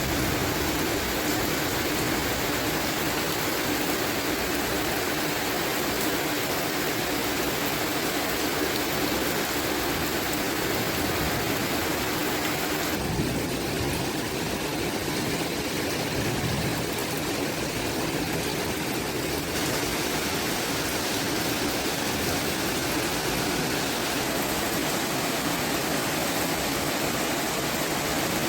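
Steady heavy rain, an even hiss of falling water with no breaks; the highest part of the hiss softens a little for several seconds around the middle.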